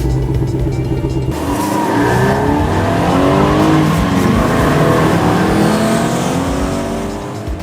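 Race-car engine sound effects: a steady engine note, then from about a second in several engines revving up and down over one another with a hiss like tire squeal, easing off near the end.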